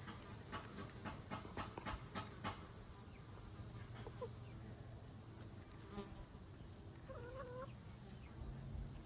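Faint chickens feeding: a run of quick taps in the first two and a half seconds, a short soft wavering hen call about seven seconds in, over a low steady hum.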